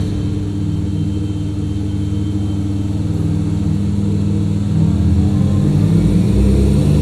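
Mazda RX-7 FD's twin-rotor 13B rotary engine running steadily at low revs, a droning engine note that swells slightly after about five seconds.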